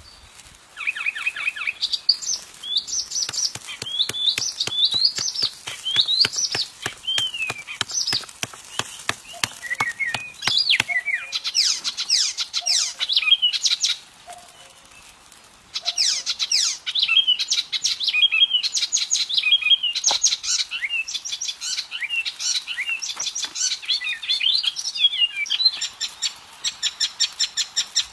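Small songbirds chirping and twittering in quick trills, many short calls overlapping, with a brief lull about halfway through.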